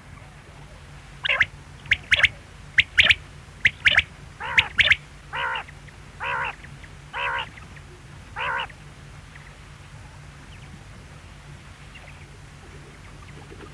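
A quail calling: a quick run of sharp, short notes for about four seconds, then four longer, buzzier calls about a second apart, and then it falls silent.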